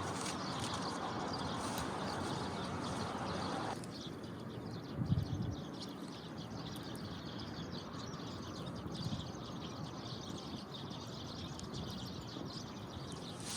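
Outdoor ambience around a wood fire burning in a small grill: faint crackling ticks and birds chirping. A steady rushing noise cuts off suddenly about four seconds in, and there is a single low thump about a second later.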